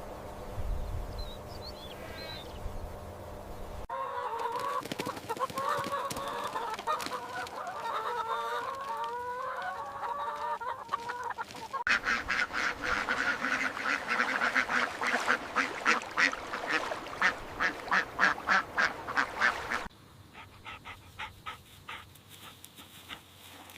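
Birds calling, in several abruptly cut segments: wavering cries for several seconds, then a loud fast run of sharp repeated calls about two a second, then fainter repeated calls near the end.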